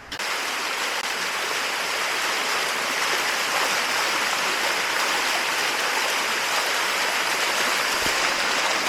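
Water cascading over the calcium-deposit rocks of the Bua Tong 'sticky' waterfall: a steady rushing, growing slightly louder.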